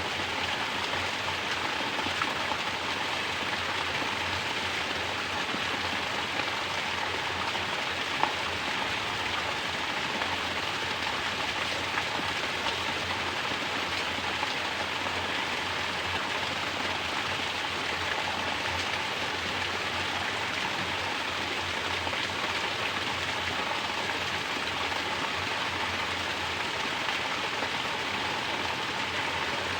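Mountain spring water pouring down steadily in a natural shower and splashing, an even, unbroken rush with the odd small drip or tick.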